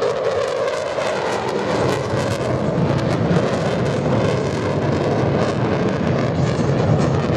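Jet aircraft making a low, fast flypast, its engine noise loud and steady enough to drown out the background music.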